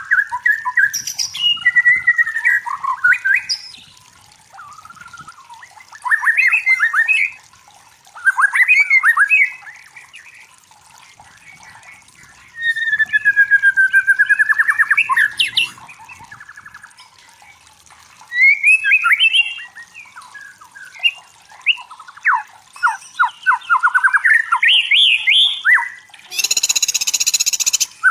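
White-rumped shama (murai batu) singing a run of loud, varied phrases: fast rattling trills, clear whistles and a long falling whistle about halfway through. A harsh, noisy burst of about a second and a half comes near the end.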